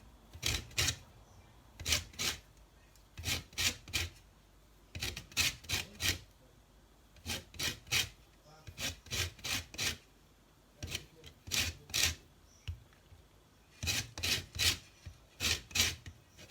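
Lemon being zested: the rind rasped against a zester in quick strokes that come in runs of two or three, with short pauses between runs.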